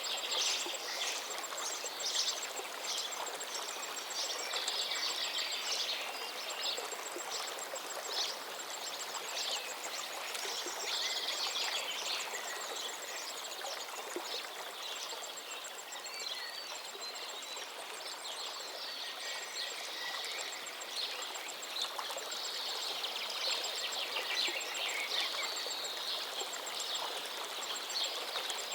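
River water running steadily, with many birds singing and calling over it. A fast, high-pitched ticking goes on through most of it, dropping out for a few seconds midway.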